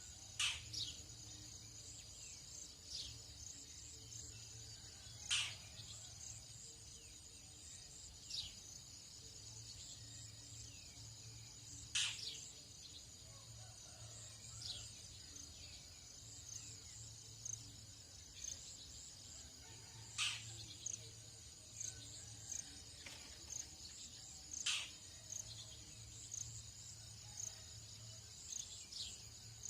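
Steady high-pitched chorus of crickets and other insects, with a bird's sharp falling call repeated about every five to eight seconds, and a faint low hum that comes and goes underneath.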